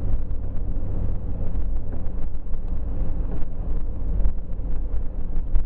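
Steady low rumble of a car driving on a snow-covered road, heard from inside the cabin, with faint scattered ticks over it.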